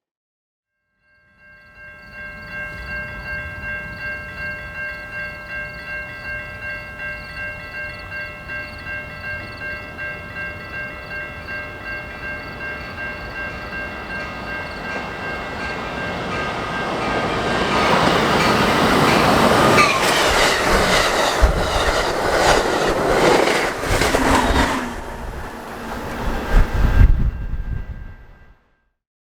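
A grade-crossing bell rings steadily, about two strokes a second. A train then comes up and passes close by, growing loud, with a horn and wheels clattering over the rail joints.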